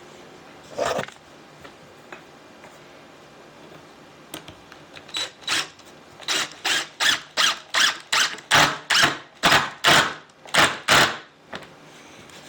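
A hand tool working wood in quick, even strokes, about three a second, getting louder. There is a single stroke about a second in, then the run starts about five seconds in and stops a little before the end.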